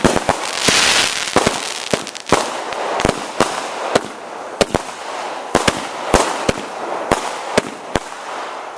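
Aerial fireworks going off: a quick, irregular string of sharp bangs, with a loud hissing crackle about a second in.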